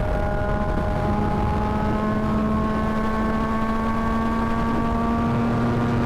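Yamaha MT-09 three-cylinder engine running under way, its note climbing slowly as the bike gradually gains speed, over a low rumble of wind rush.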